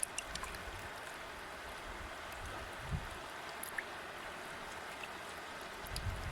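River water flowing steadily: an even rushing hiss flecked with small splashes and droplet ticks, with one brief low thump about halfway through.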